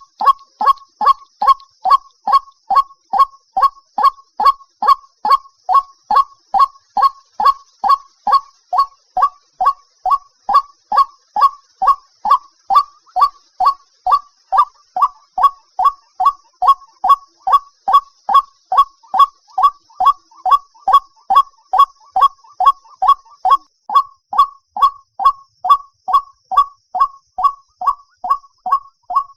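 White-breasted waterhen calling: one short honking note repeated evenly about twice a second without a break, the monotonous call used as a lure to draw the birds to a net.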